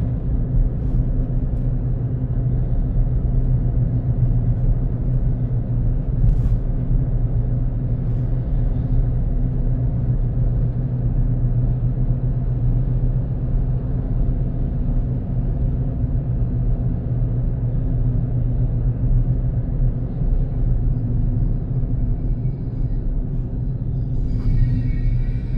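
Steady low rumble of a car on the move, engine and road noise, with a faint high ringing tone briefly near the end.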